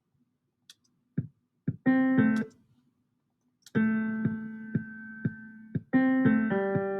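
Playback of a short MIDI jingle: software piano chords with sharp drum hits. About four seconds in a chord is held for two seconds under drum taps about every half second, then another chord comes in.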